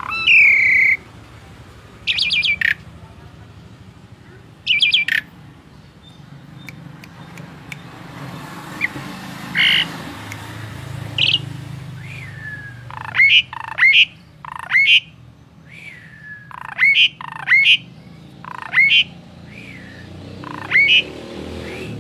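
A songbird giving short, loud, sharp calls: a few spaced calls at first, then a run of quick calls, often in pairs, through the second half.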